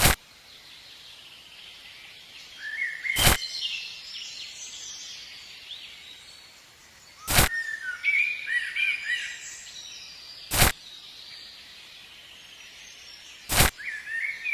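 Birds chirping in the background, broken by five sharp clicks at even spacing of about three seconds.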